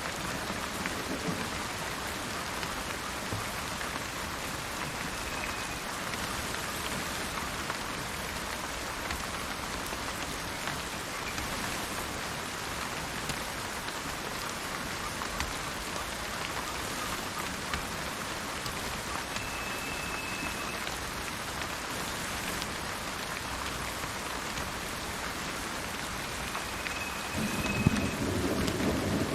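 Steady rain, with low rolls of thunder at the start and again near the end. A few brief, high bird chirps sound faintly through the rain.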